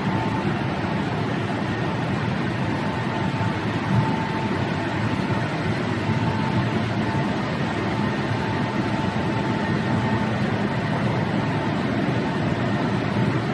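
Tunnel car wash machine running: a steady rush of spraying water and machinery noise, with a faint high whine that comes and goes.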